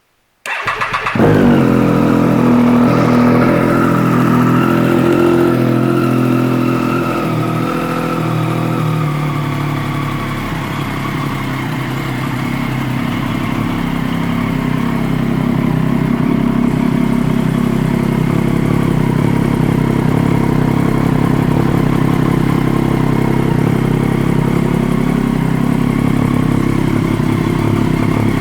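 Triumph Daytona 675 inline-three engine, fitted with an aftermarket Dan Moto twin exhaust, starting with a brief crank about half a second in and catching. It then idles steadily, its idle easing slightly lower over the first ten seconds before settling.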